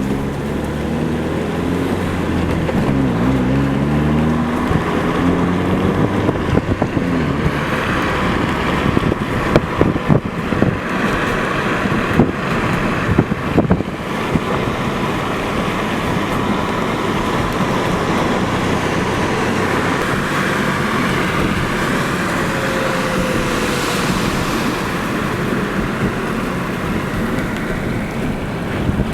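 Storm wind gusting across the microphone, with a vehicle engine running underneath that rises and falls in pitch in the first few seconds.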